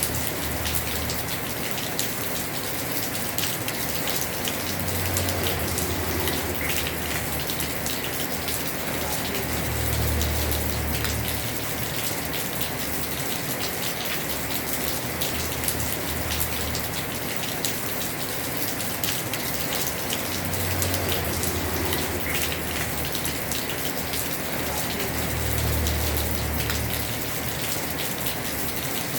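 Heavy rain pouring steadily on a house roof, a dense hiss of many drop impacts. A low rumble swells and fades several times underneath.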